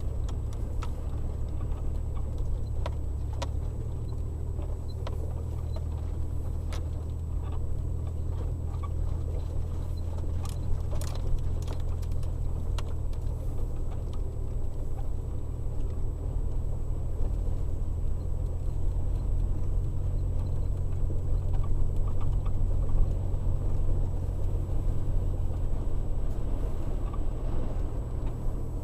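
Strong wind: a steady low rumble with scattered light clicks and rattles.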